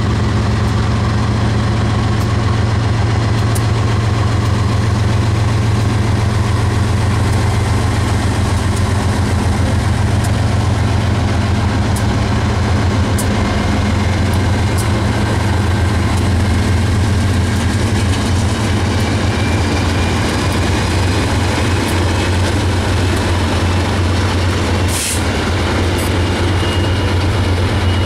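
Diesel-electric freight locomotives, led by a GE Dash 9-44CW, running under power as they pull a freight train past at low speed: a loud, steady, deep engine drone with scattered sharp clicks. After the locomotives go by, loaded flatcars roll past.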